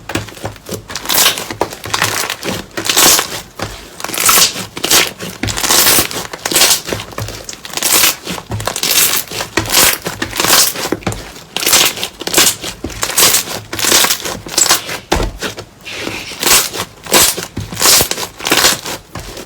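Slime being squeezed and pressed by hand, giving a run of noisy squelching bursts, roughly one a second.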